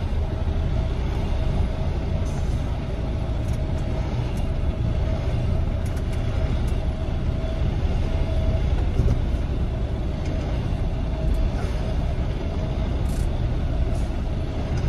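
Truck's diesel engine running at low speed during a slow manoeuvre, a steady low rumble, with a steady hum over it that stops about halfway through.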